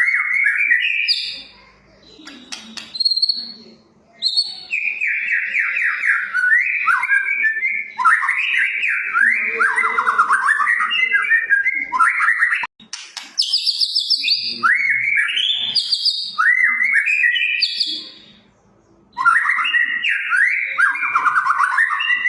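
White-rumped shama (murai batu) singing in full 'gacor' song: long phrases of fast, rapid-fire notes sweeping up and down, broken twice by brief pauses.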